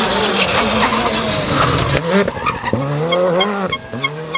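Rally car engine at high revs with the tyres skidding. About two seconds in, the engine revs start swinging sharply up and down, with a run of regular clicks over the engine in the second half.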